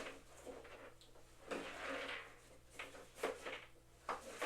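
Unpacking and handling noises: faint rustling with a few light knocks.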